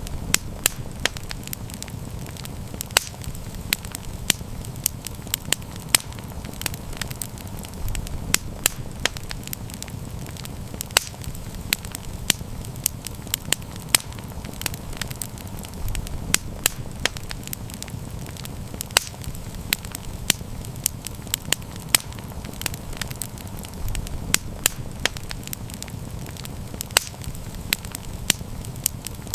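Wood fire crackling, with frequent sharp pops and snaps at irregular intervals over a steady low rumble of burning.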